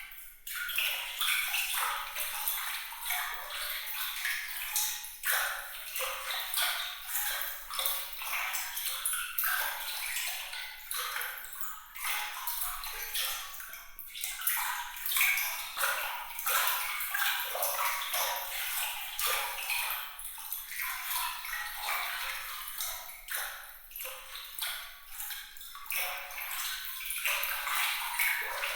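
Water trickling and splashing, thick with bright little plinks of droplets; the sound sits high, with no low rumble, and rises and falls in loudness.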